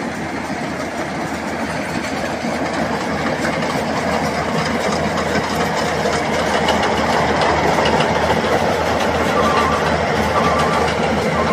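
Rice combine harvester's engine and threshing machinery running steadily as it harvests, growing louder over the stretch. A short beep starts repeating about once a second near the end.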